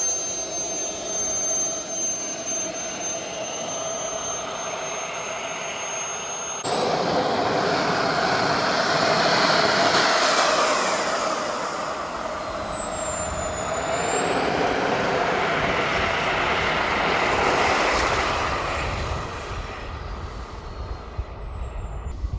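Model jet turbine engine running with a high whine: steady at first, then louder after an abrupt change about a third of the way in, with the whine falling and rising in pitch over several seconds.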